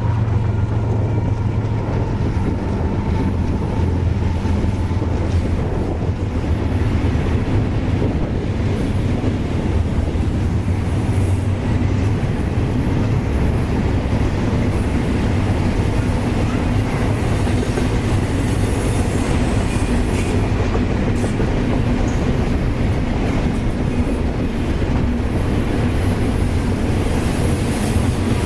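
Freight train rolling past close by, with a steady, loud noise of steel wheels on the rails.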